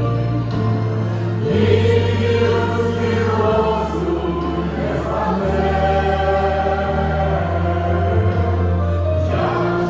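Ukrainian Christian worship song: a choir holds long chords without clear words over a deep bass line that moves to a new note every second or two.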